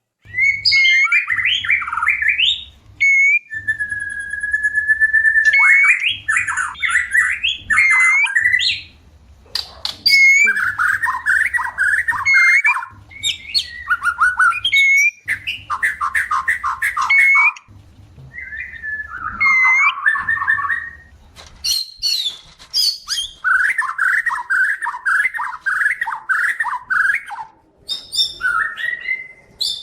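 White-rumped shama singing a loud, varied song of fast repeated-note runs and sharp high notes, with one long steady whistle about four seconds in and short pauses between phrases. It is the song of a shama in breeding condition, calling to mate.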